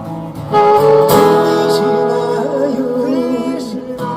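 A song sung with instrumental accompaniment: the voice holds long notes with vibrato, a new phrase starting about half a second in.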